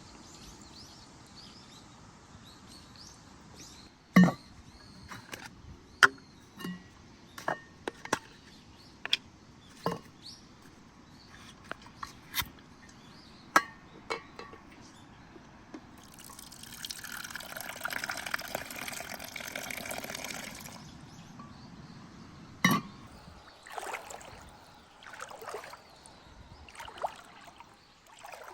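A series of sharp clinks and knocks of camp cookware, then liquid pouring for about four seconds, followed by another knock and a few softer scrapes.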